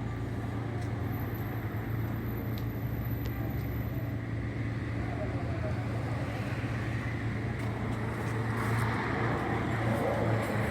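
Steady low rumble and hum of a running road vehicle, growing a little louder about eight seconds in.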